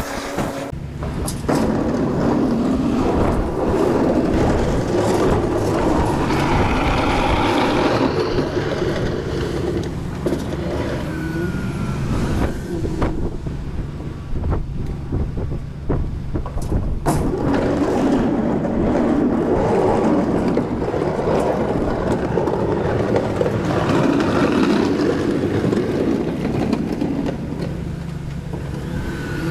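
A vehicle engine running steadily, with a low hum under a louder noisy rumble that swells and eases several times.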